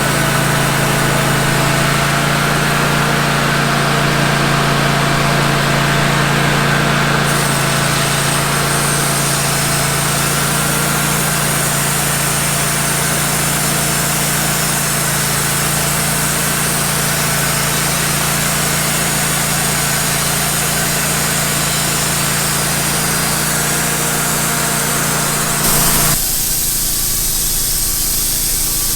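Wood-Mizer band sawmill running steadily, its engine humming under the hiss of the band blade sawing through a pine log. The hiss thins out suddenly near the end while the engine runs on.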